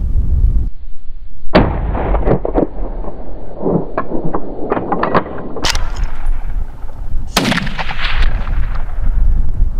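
Hunting gunshots: three loud shots, about a second and a half in, near six seconds and about seven and a half seconds in, each with a short echoing tail. Wind rumbles on the microphone underneath.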